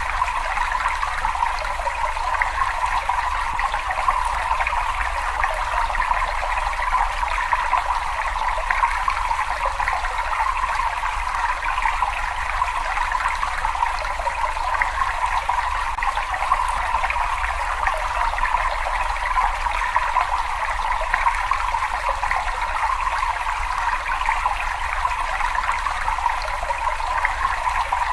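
Water running and trickling in a cave, a steady continuous splashing with no breaks.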